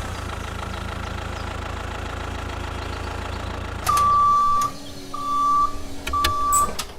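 A small motor running with a steady low hum, then three long, high beeps at one pitch about a second apart, starting about four seconds in, as the hum drops away.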